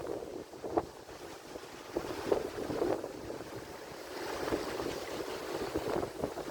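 Atlantic Ocean surf: water washing and splashing against the shore in short uneven splashes, with a wave's wash swelling up about four seconds in.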